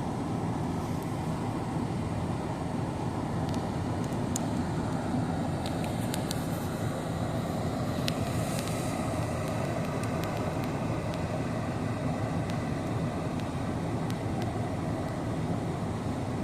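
Steady low rumble of a motor vehicle running, with a few faint clicks over it.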